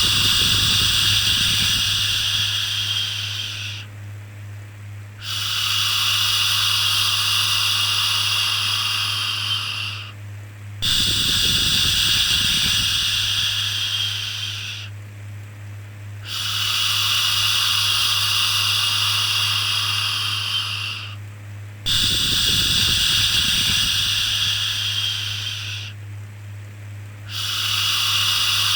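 Long drawn-out 'shhh' shushing sounds for soothing a baby, each lasting about four to five seconds and repeating with short pauses between, over a steady low hum.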